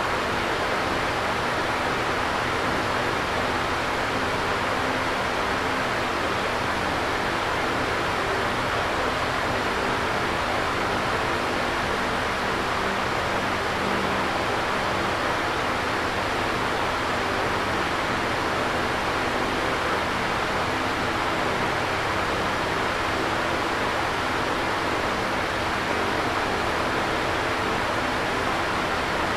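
Electric fan running steadily: an even whoosh of moving air with a faint low hum underneath.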